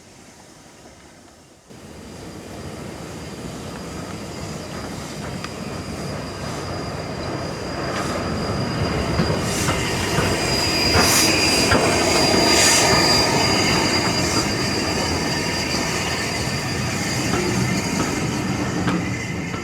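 Train pulling into a station platform, growing louder from about two seconds in, with a high steady squeal of wheels and brakes at its loudest midway and scattered clicks of the wheels over rail joints.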